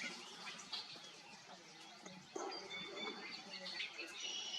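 Green-tailed towhee calling: a series of short, thin, high whistled notes, more of them in the second half. A soft knock sounds a little past halfway.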